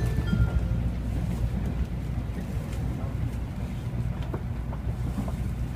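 Steady low rumble and hum of a Tokaido Shinkansen train, with a few faint clicks near the end.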